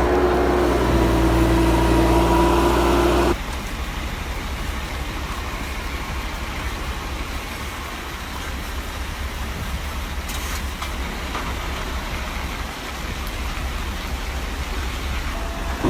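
Heavy truck engine running: a loud, steady engine tone for about the first three seconds, then an abrupt cut to a quieter, rougher engine rumble.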